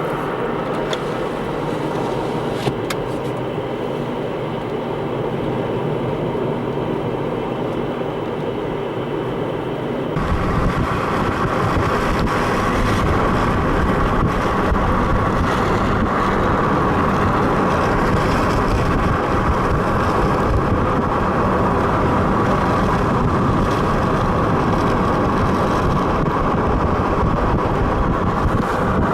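Steady road and engine noise of a car driving. About ten seconds in it switches abruptly to a louder, fuller rushing noise.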